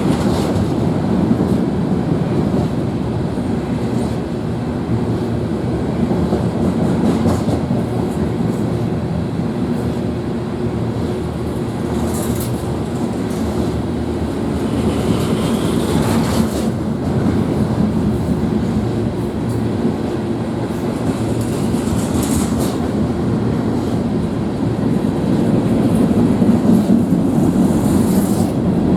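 Freight train's railcars rolling past at speed: a steady, loud rumble and clatter of wheels on rail, with brief high squeals a few times.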